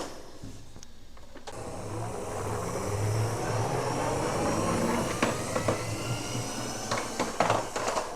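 A small motor whirring steadily, with a faint high whine in it; it swells about two seconds in and eases off near the end, with a few light clicks.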